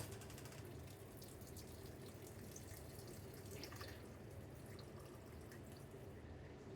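Faint kitchen prep sounds: scattered light ticks and taps over a steady low hum.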